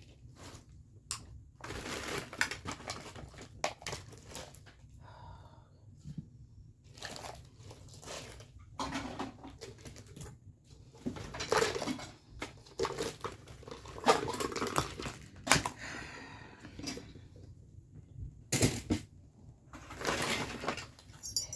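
Household clutter being picked up and sorted by hand: irregular rustling and crinkling with light knocks and clatter as items are moved and set down.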